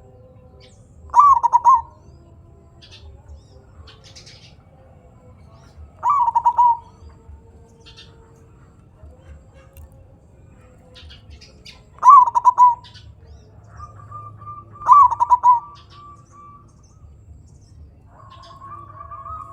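Zebra dove (perkutut) singing: four short, loud, stuttering coo phrases a few seconds apart, each ending in the deep 'kung' note. Faint high chirps of other small birds sound between the phrases.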